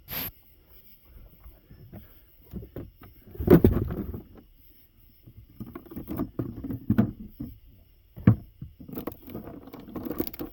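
Someone rummaging in a cooler: irregular knocks, clatter and handling noises, with a louder bout of clattering about three and a half seconds in and a single sharp knock near the end.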